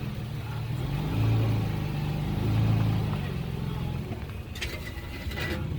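Off-road vehicle engine running under load, its pitch swelling twice about a second and a half apart, with a short noisy burst near the end.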